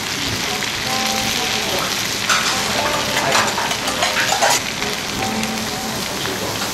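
Okonomiyaki frying on a hot teppan griddle: a steady sizzling hiss, with a few louder crackling spatters from about two to four and a half seconds in.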